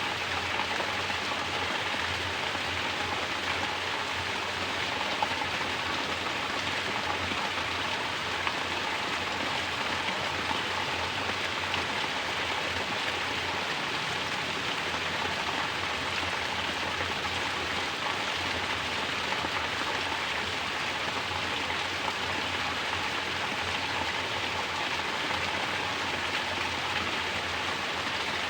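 Mountain spring water falling steadily as a natural shower and splashing, a constant even rush with no change throughout.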